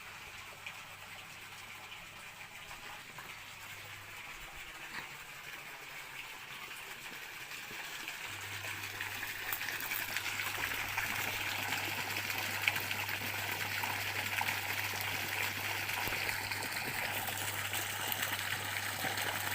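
Running water flowing steadily, a rushing wash that grows louder about halfway through.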